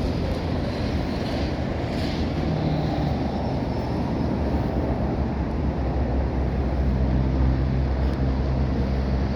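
1967 Oldsmobile 442's 400 cubic-inch V8 running with a steady low exhaust rumble that gets a little louder about two-thirds of the way through.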